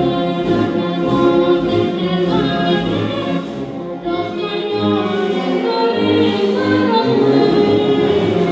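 A choir singing with orchestral accompaniment and a pulsing bass line.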